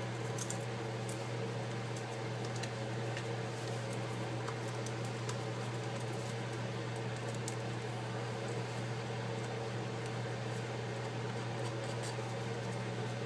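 Steady hum of a small electric blower running without change, with faint, scattered clicks of tools picking broken glass fragments.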